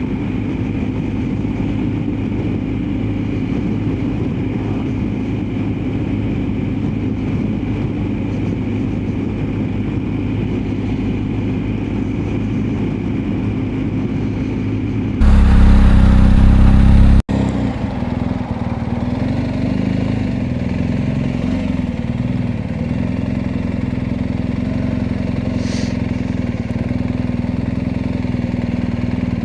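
BMW R1250GSA motorcycle's boxer-twin engine running steadily at road speed, with road and wind noise. About halfway through, a much louder rumble lasts about two seconds and cuts off abruptly.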